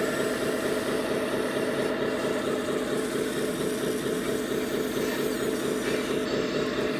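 1/14-scale radio-controlled truck running steadily: a continuous engine-like drone with a fast, even pulse.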